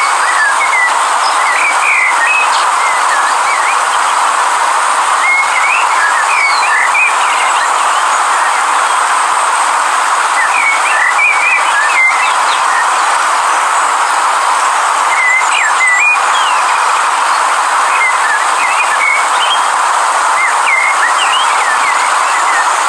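A river's steady rushing flow, with short bird chirps scattered over it at intervals.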